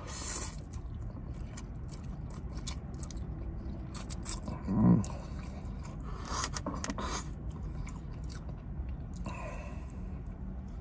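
Close-up mouth sounds of eating chow mein noodles and barbecued pork: a quick slurp of noodles at the start, then wet chewing with small clicks. A short hummed "mm" comes about five seconds in, over a low steady hum.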